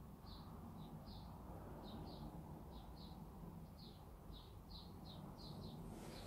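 Near-quiet room tone with faint, short high chirps repeating about two a second: a bird calling in the background.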